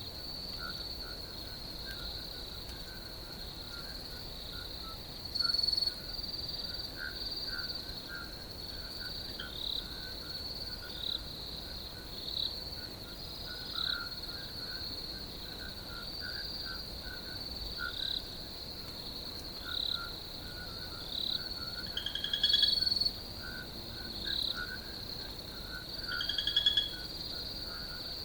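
Night chorus of crickets trilling steadily and high-pitched, with a lower layer of short chirps repeating irregularly. A few louder short calls stand out over it: one about five seconds in and two near the end.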